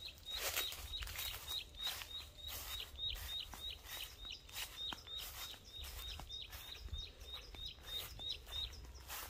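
A bird calling a steady series of short, high chirps, about three a second, that stops near the end. Scattered footsteps and rustling through the orchard undergrowth run underneath.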